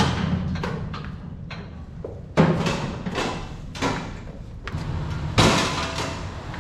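A series of heavy bangs and thumps, several loud and sharp with a ringing tail, over a steady low hum.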